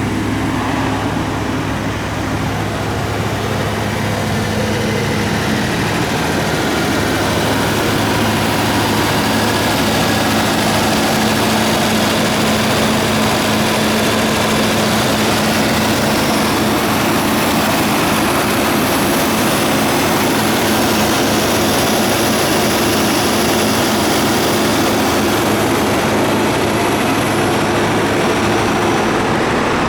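1980 Mercedes-Benz 450SL's 4.5-litre V8 engine running at a steady idle, a constant low hum with a rushing noise over it, getting a little louder over the first several seconds.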